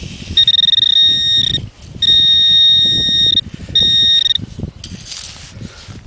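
Garrett Pro-Pointer AT pinpointer sounding its high-pitched steady alarm tone three times, each lasting about one to one and a half seconds, as the probe closes in on a buried metal target. Low scraping and handling noise runs underneath.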